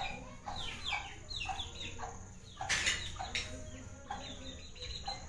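Birds calling, a quick run of short chirps that each fall in pitch, repeating a few times a second, with a brief hiss-like noise about three seconds in.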